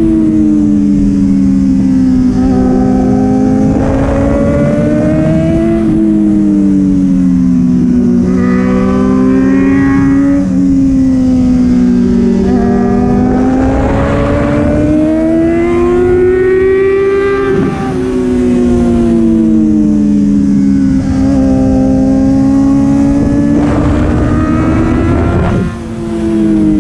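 Sport motorcycle engine heard from on board while riding, its pitch rising and falling over and over as the rider accelerates and backs off through a run of corners, with a few brief drops in level at gear changes or throttle-off. Heavy wind rush on the microphone runs underneath.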